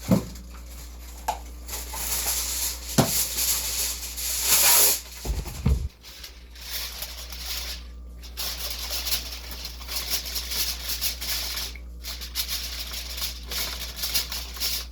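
Packaging rustling and crinkling as it is handled, with a few short knocks of items being set down.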